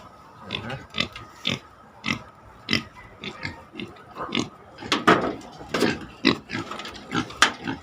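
Native pigs grunting, short grunts coming in quick irregular succession, louder around five seconds in.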